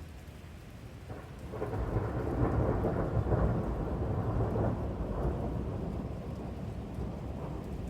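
Thunder rolling in about a second in, building to a loud crackling peak and then slowly rumbling away, over steady rain.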